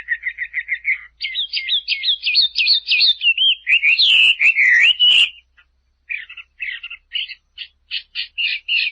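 A small bird chirping in quick runs of short, high notes, some sliding up and down, with a few faint clicks in the middle and a brief pause about five and a half seconds in.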